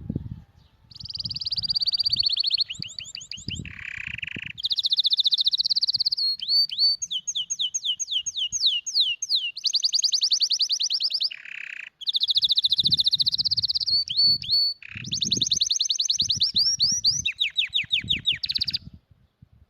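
Canary singing a long song of rapid rolling trills, each phrase one short note repeated many times a second, with a lower buzzy phrase dropped in twice. Soft low thuds sound beneath the song.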